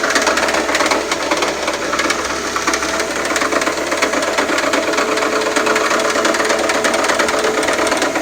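Engine running with a steady, rapid knocking clatter from the belt-driven accessories, the sign of a failing AC compressor.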